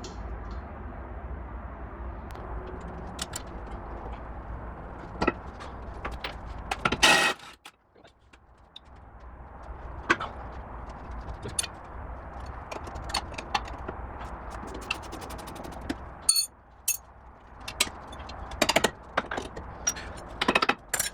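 Scattered metal clinks and knocks of hand tools and suspension parts during work on a car's rear hubs, with one louder short clattering burst about seven seconds in, over a steady low hum.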